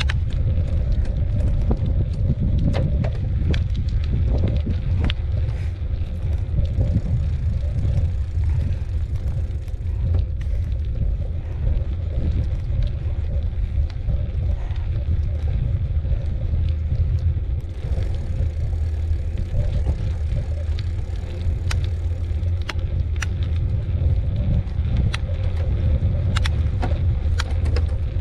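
Mountain bike ridden along a dirt trail: steady low rumble of wind buffeting the microphone and tyres rolling, with scattered small clicks and rattles from the bike and gravel.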